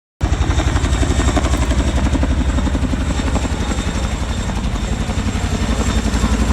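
Helicopter running, its rotor blades beating in a fast, even pulse of about six beats a second, with a thin steady high whine above it.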